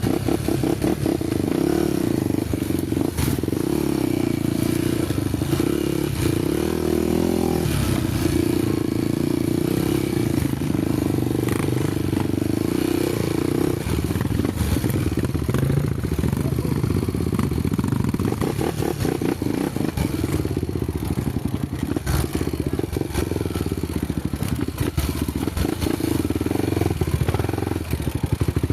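Honda motorcycle engine running under way off-road, its note rising and falling with the throttle, with scattered knocks and rattles.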